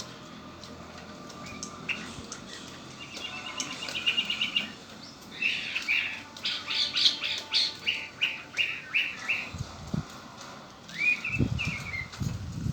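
Pet red-winged blackbird calling: a short trill, then a run of loud repeated chirps, and a downslurred call near the end. Low thumps sound near the end.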